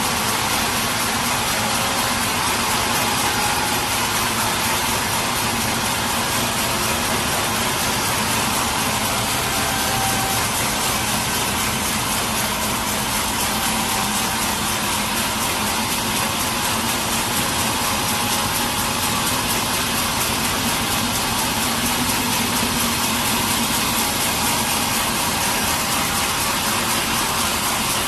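Sawmill machinery running steadily with a loud, even, engine-like noise, unbroken and without clear changes in pitch.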